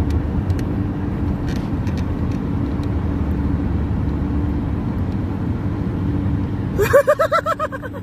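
A steady low rumble, like a vehicle engine running. Near the end a brief warbling, pitched call cuts in.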